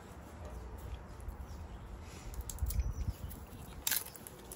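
Close-up chewing and mouth noises from a person eating a bite of halibut, with a few small clicks and one sharper click a little before the end.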